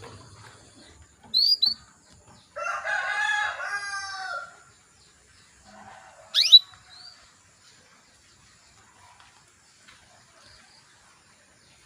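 Female canary calls: short chirps, then a single sharp rising whistled call about six and a half seconds in, the loudest sound. A rooster crows for about two seconds near the start.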